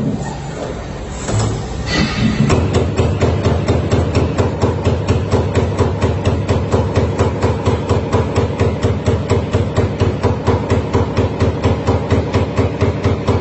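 Prima Power CNC punch press punching stainless steel sheet: a steady run of sharp hits at about four to five strokes a second, starting a couple of seconds in after some irregular clatter.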